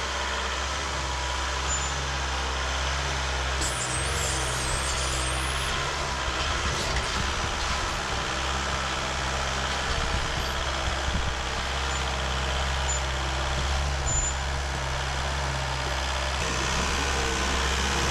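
Off-road rig's engine running steadily under a broad rushing noise, with a brief high-pitched squeak about four seconds in.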